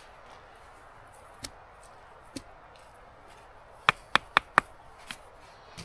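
Sharp knocks, as of a hand tool striking wood: two single strikes, then a quick run of four about a second and a half later, and a softer one just after.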